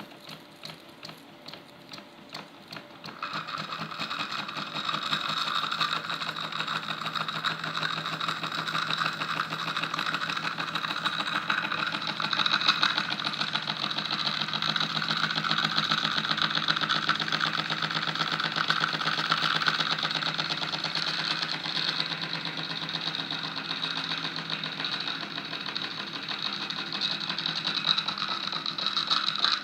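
Small homemade brass oscillating-cylinder steam engine starting on steam: a few separate ticks, then about three seconds in it picks up to a fast, steady rhythmic clatter as it runs.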